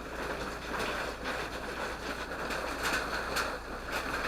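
Steady rush of water from a waterfall, with a few faint clicks.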